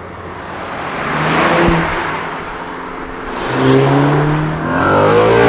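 Cars driving past one after another with their engines accelerating. Each swells and fades, the first about a second and a half in and the second just under four seconds in, and a louder third is building near the end.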